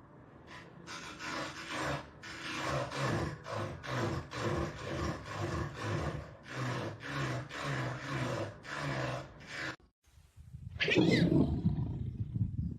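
An animal making a run of low, pitched calls at about two a second, then, after a brief break, one louder call that falls in pitch.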